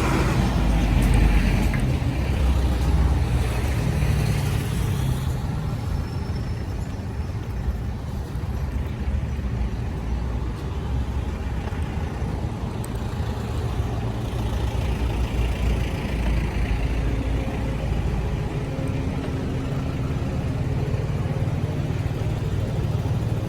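Road traffic heard from a moving bicycle, with a steady low rumble from wind and vibration on a bike-mounted camera. The traffic noise swells as vehicles pass near the start and again about two-thirds of the way through.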